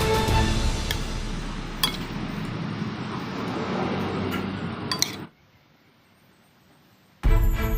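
A few light clinks of a utensil against glass or a dish over a rustling noise, then a stretch of near silence before music returns near the end.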